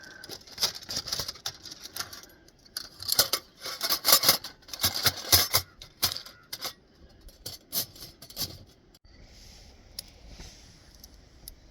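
Quick clicks, taps and rattling clatters of camp cooking gear and food being handled. About nine seconds in, they give way to a faint steady hiss.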